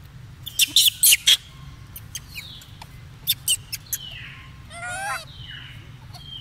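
Bird chirps: several short falling whistles and a warbling call about five seconds in. Two quick clusters of sharp, loud clicks come near the start and just past the middle.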